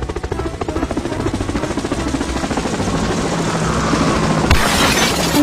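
Rapid, even chopping mechanical noise, like an engine or rotor, growing steadily louder, with a hiss joining it about four and a half seconds in.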